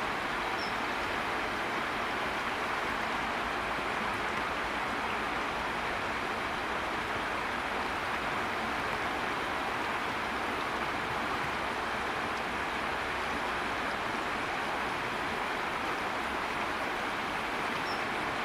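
Steady rush of river water, an even unbroken noise with no change in level.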